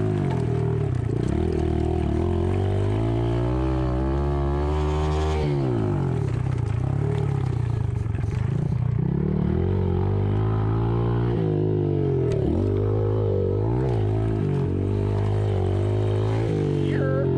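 An engine running steadily, its pitch dipping and recovering several times as under changing load or throttle.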